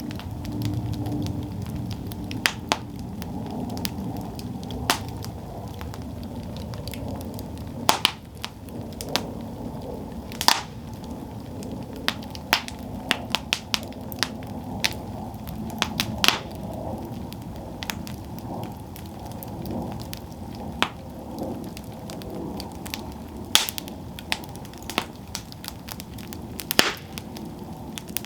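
Wood campfire burning: a steady low rush of flame with irregular sharp crackles and pops, a few of them louder than the rest.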